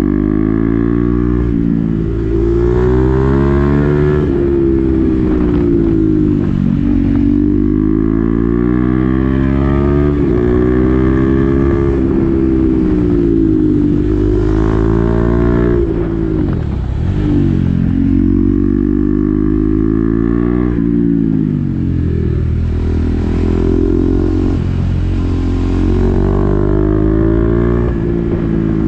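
KTM Duke 390's single-cylinder engine through an SC-Project exhaust with the dB-killer fitted, pulling hard while riding. Its pitch climbs and drops sharply over and over as it shifts through the gears. It slows briefly about halfway through, then pulls up through the gears again.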